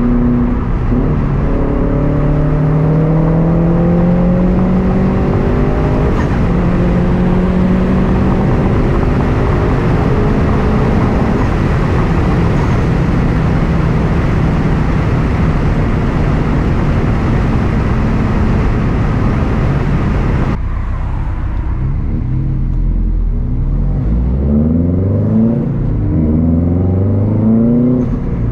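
Subaru STI's turbocharged flat-four through a Tomei Expreme Ti unequal-length exhaust, running loud under acceleration, its pitch climbing in the first few seconds and then holding. About twenty seconds in the sound suddenly drops and thins, then the pitch climbs again near the end.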